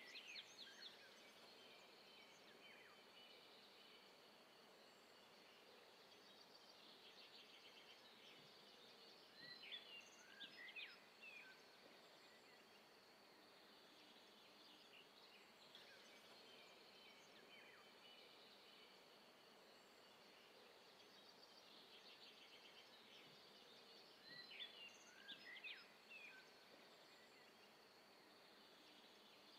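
Faint outdoor ambience: small birds chirping in short clusters of quick notes every several seconds over a steady low hiss.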